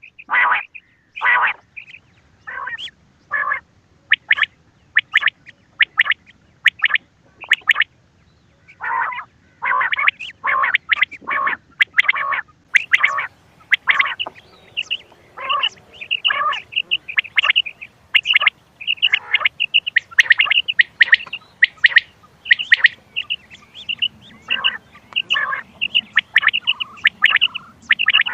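Recorded quail calls played as a hunting lure: short, sharp calls repeated one to two a second, turning from about halfway into faster, denser high notes.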